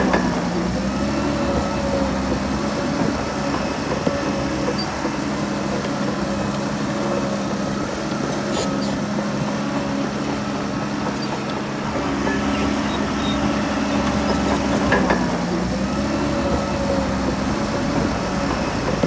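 Heavy diesel engine of an earthmoving machine running steadily under changing load. Its pitch dips briefly just after the start and again about fifteen seconds in, and the low rumble swells during those stretches. A few short clanks come around the middle.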